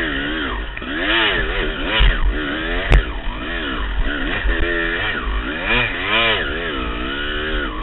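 250 cc two-stroke dirt bike engine revving up and down over and over as the throttle is worked on a steep climb, with a sharp knock about three seconds in.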